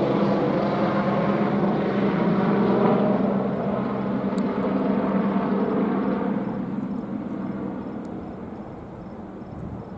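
EC-145 twin-engine air-ambulance helicopter in flight, a steady rotor and turbine sound with a strong low hum, fading over the last few seconds.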